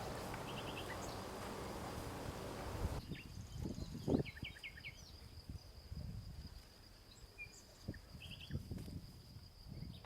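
Faint outdoor background: a steady high insect whine, with short chirps in quick groups of three or four. Under it runs a low hiss that drops away suddenly about three seconds in, and there are a few soft low knocks.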